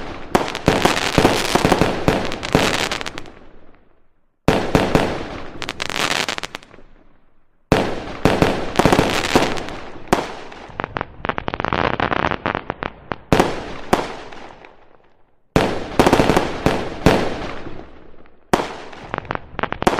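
Fireworks bursting, a dense run of bangs and crackles, in several stretches that fade off and then cut out suddenly, with fresh bursts starting straight after.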